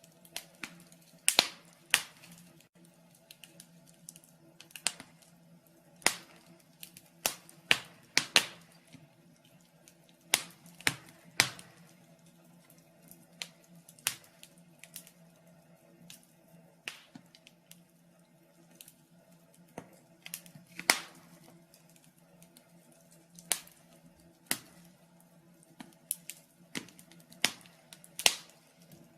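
Wood fire in a fireplace crackling, with irregular sharp pops scattered a second or two apart, over a faint steady hum.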